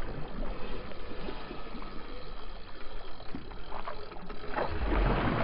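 Water splashing and lapping around a kayak, with small knocks and clicks scattered through it; the rush of water grows louder near the end.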